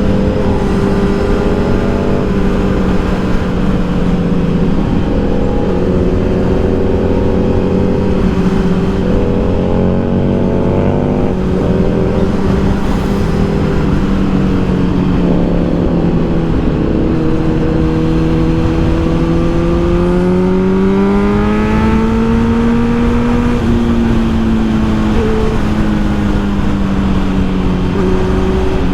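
Kawasaki Z900's inline-four engine running under way, its pitch holding fairly steady with small changes, then rising from about 20 seconds in and dropping back a couple of seconds later.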